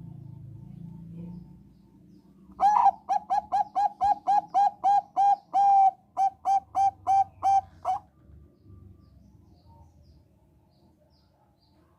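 Zebra dove (Thai 'Bangkok' perkutut) singing: a quick run of about twenty short coos, roughly four a second, starting about three seconds in, with a brief break a little past halfway and ending about eight seconds in.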